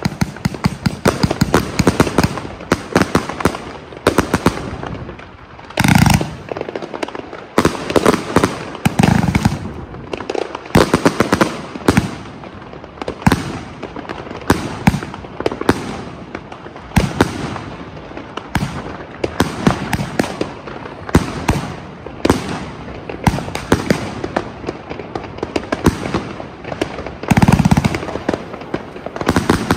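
Mandarin Fireworks firework cakes going off: a rapid, unbroken string of sharp cracks and reports, with heavier booms about six seconds in and again near the end.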